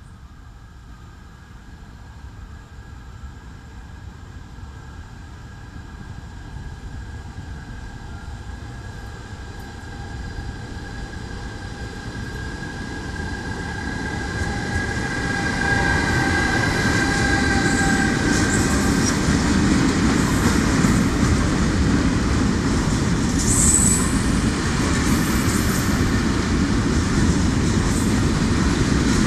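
Electric locomotive approaching and passing at the head of a freight train of open wagons. A high whine of a few steady tones grows louder over the first half, then the loud, steady rumble of the wagons rolling by takes over, with a brief high squeal about two-thirds of the way through.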